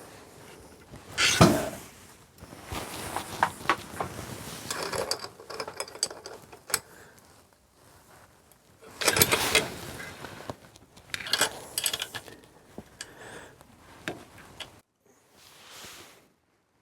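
Hand tools working metal engine parts on a 1929 Riley 9 engine being reassembled: irregular clicking, clinking and scraping as fastenings are tightened down, in bursts, with louder clatters about a second in and around nine and eleven seconds in.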